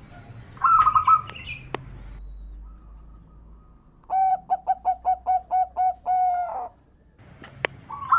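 Zebra dove (perkutut) singing: a short, high trilled phrase about a second in, then a quick run of about ten staccato coos, with a couple of sharp clicks between them.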